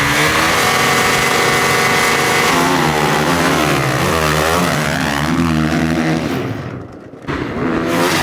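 Motocross bike engine held at high revs, then rising and falling in pitch again and again as the throttle is worked. The sound briefly drops away about seven seconds in, then the engine comes back.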